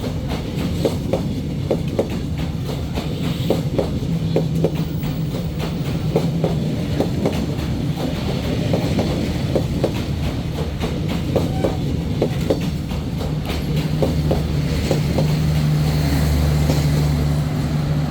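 Passenger train cars rolling past close by, wheels clicking over the rail joints in a steady clickety-clack. A steady low hum grows louder near the end.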